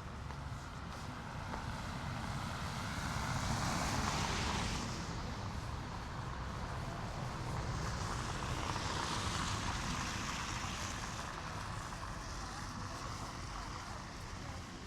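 Street traffic: two vehicles pass one after another, their tyre and engine noise swelling and fading, over a steady low city rumble.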